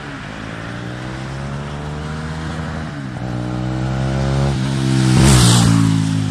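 Mahindra Mojo's single-cylinder engine accelerating through a gear change as the motorcycle approaches, its exhaust note rising and growing louder, loudest as it passes about five seconds in, then dropping in pitch as it moves away.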